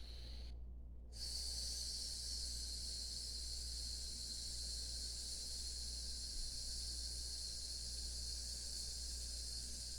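A person making the long hissing "sss" exhalation of the Taoist six healing sounds, the sound for the lungs and grief. After a brief fainter hiss, it starts about a second in and is held evenly for about nine seconds.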